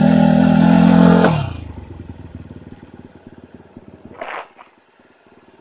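Enduro motorcycle engine running steadily, then dropping away sharply about a second in, its pitch falling. A faint, fast ticking engine sound follows, with a brief higher-pitched sound near the middle.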